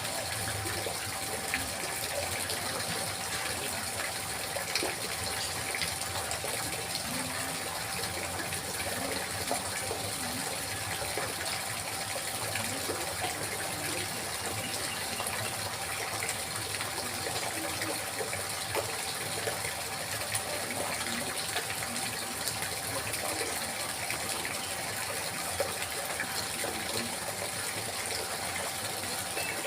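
Water trickling and splashing steadily, without a break.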